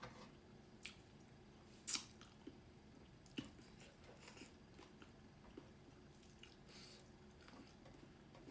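Quiet close-up eating sounds: soft chewing with scattered wet mouth clicks and smacks, the sharpest about two seconds in.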